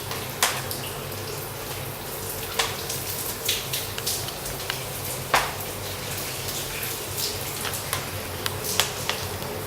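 Wood fire crackling in the firebox of a wood-fired hot water heater: irregular sharp pops over a steady rushing noise.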